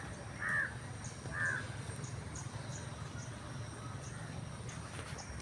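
Crow cawing: two short harsh caws in the first second and a half, over a steady low background rumble.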